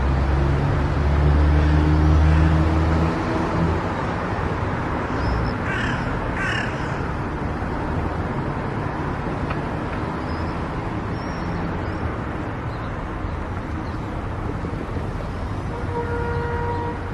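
Steady road and tyre noise of a car driving on an expressway, with a heavy low hum for the first few seconds. About six seconds in come two short harsh cawing calls, and near the end a brief steady tone.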